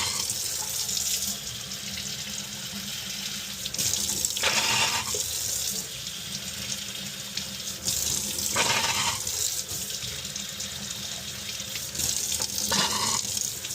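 Tap water running into a sink through a furnace condensate drain trap that is being flushed clean, with three louder splashing surges about four seconds apart.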